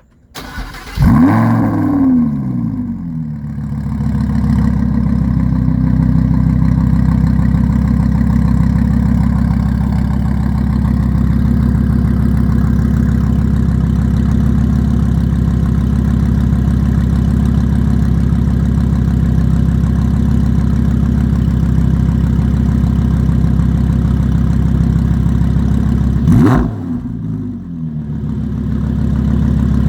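Lamborghini Huracan LP 610-4's V10 engine, fitted with an upgraded exhaust, starting: it fires with a sharp flare of revs about a second in that falls away to a steady idle. Near the end one quick blip of the throttle rises and drops back to idle.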